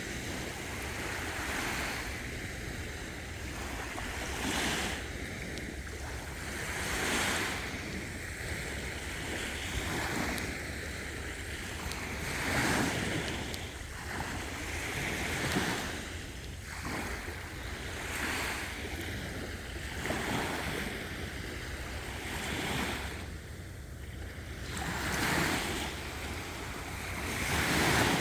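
Sea waves washing onto a beach, surging and falling back every few seconds, with wind rumbling on the microphone.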